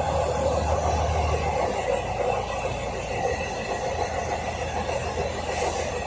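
Diesel railcar running along rail: a steady rumble of wheels on track over an engine drone. The low engine note drops away about a second and a half in.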